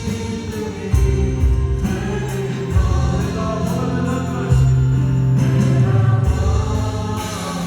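Church praise team rehearsing a worship song: several voices singing together over keyboard, with sustained low bass notes that change every second or two.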